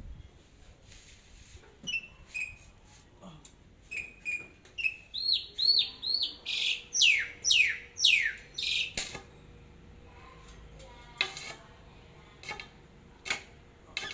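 A bird calling: a run of short chirps, then a series of loud whistled notes that sweep downward in pitch. After it come a few sharp clicks.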